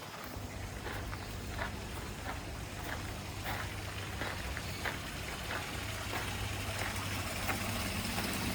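Steady low hum with faint water noise from aquarium pumps and filters, with light ticks every half second or so.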